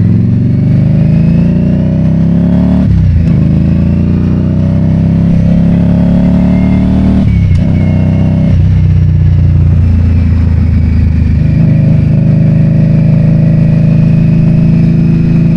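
Motorcycle engine accelerating through the gears: the engine note climbs, drops at an upshift about three seconds in, climbs again and drops at a second upshift about halfway through, then runs at a steadier cruising note.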